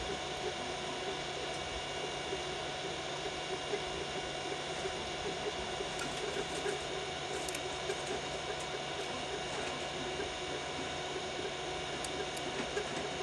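Biqu BX 3D printer printing at 120 mm/s: the stepper motors whine and flutter with the print head's moves over the steady hum of its fans.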